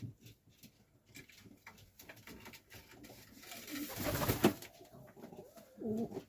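Highflyer pigeons cooing in a small loft, with light clicks and scuffs. About halfway through comes a louder rustling burst.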